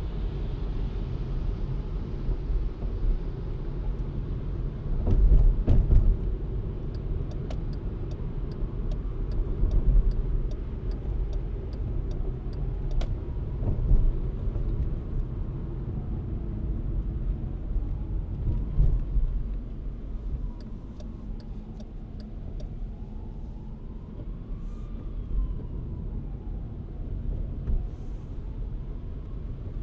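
Car driving through city streets: a steady, low road rumble. A run of quick, evenly spaced ticks comes about a quarter of the way in, and a faint tone rises and falls in the second half.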